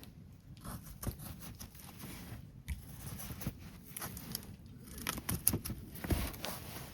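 Rustling and handling noise with scattered light clicks and taps, like gear being handled at close range; the sharpest taps come near the end.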